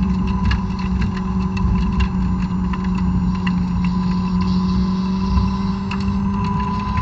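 2006 Honda S2000's 2.2-litre inline-four with stock exhaust, heard from inside the cabin, held on throttle at about 5,500 to 5,800 rpm; the pitch sags a little, then climbs again near the end. Scattered light clicks run over the engine note.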